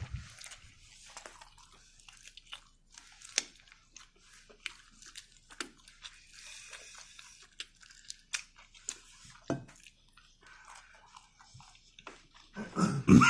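Close-up chewing of a hot-sauced chicken wing: soft wet smacks and small crunches of meat and skin. Near the end a loud cough breaks out as the hot sauce catches in his throat.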